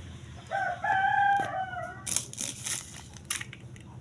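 Rooster crowing once, a single call of about a second and a half that drops in pitch at its end, followed by a few sharp clicks or knocks.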